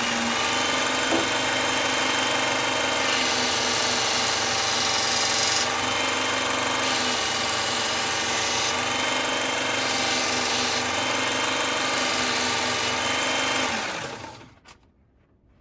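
Electric knife-sharpening machine running steadily while a blade is drawn across its abrasive several times, the grinding hiss changing with each pass and the motor dipping slightly under the load. About fourteen seconds in, the machine is switched off and winds down to a stop.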